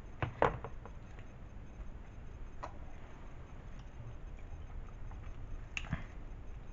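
Close-up eating sounds: chewing of a fried steak chimichanga, with a few sharp crunchy clicks, two near the start, one in the middle and one near the end.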